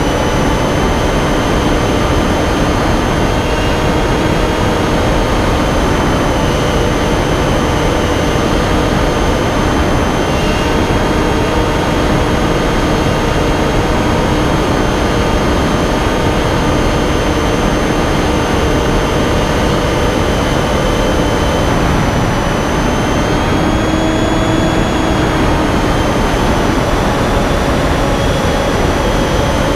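Finwing Penguin FPV model plane's electric motor and pusher propeller running in flight: a loud, steady whine that shifts slightly in pitch now and then, over a heavy rush of air noise.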